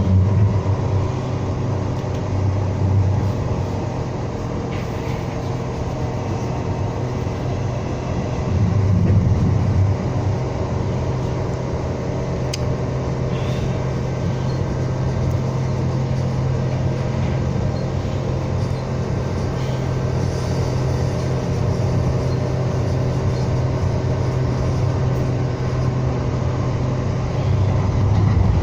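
U2 light rail car running on the line, a steady low rumble with a few steady tones over it, swelling a little about a third of the way in and again near the end.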